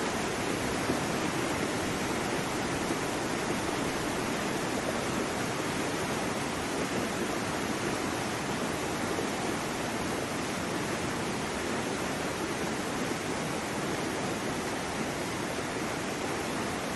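Waterfall: water cascading and splashing in a steady, even rush.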